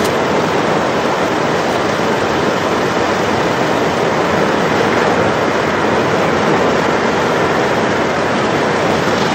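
Steady, even rushing noise with no distinct events, like wind, rain or road noise heard from a storm chaser's car.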